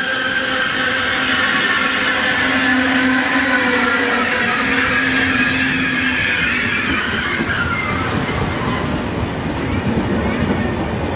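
High-speed electric train moving along a station platform: a continuous rumble of wheels on rail with motor whines that glide down in pitch partway through, over a steady high whine.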